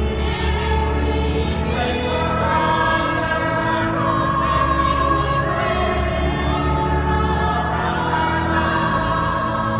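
Choir singing a sacred piece in a large church, with sustained low bass notes held under the voices.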